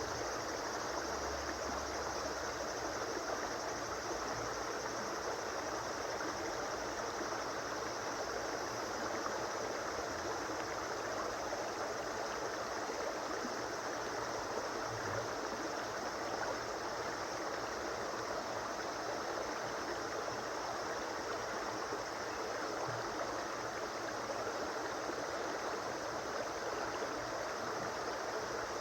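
River or stream water flowing over stones, a steady rushing and gurgling with no change throughout.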